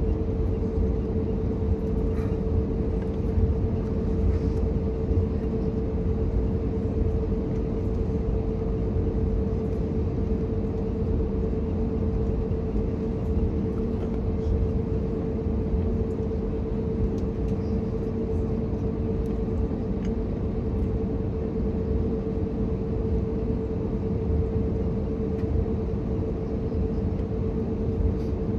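Steady cabin noise of an Airbus A321neo with CFM LEAP-1A engines in flight: an even low rumble of engines and airflow with a constant hum running through it.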